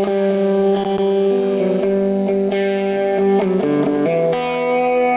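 Live emo band playing: distorted electric guitars ring out held chords that change every second or two.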